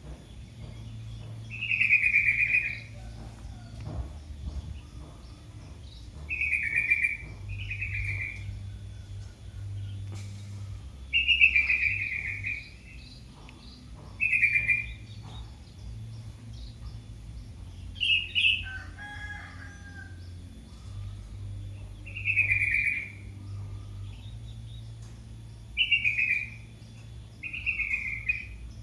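Young kitten mewing over and over, calling for its mother: about nine short, high-pitched cries, each falling in pitch, with a steady low hum underneath.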